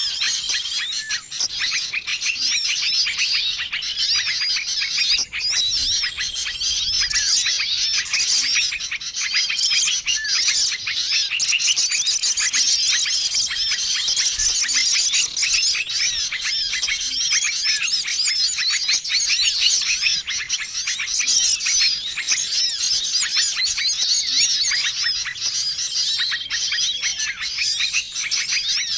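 Dense chorus of many small songbirds chirping and twittering at once, without a break. Short, steady whistled notes recur every few seconds among the chirps. It is a mixed bird-lure call recording made to draw wild small birds in.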